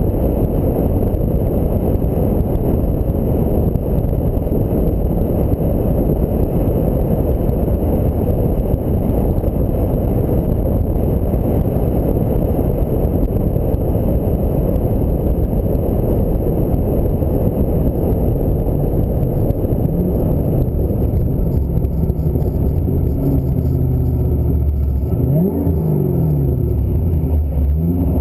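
Ford Mustang SVT Cobra on the move, with a steady rush of road and wind noise. In the last several seconds the V8's engine note comes through more clearly, its pitch rising and then dropping.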